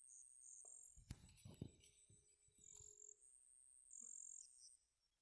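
Near silence, with faint high-pitched chirping that comes and goes and a couple of faint clicks about a second in.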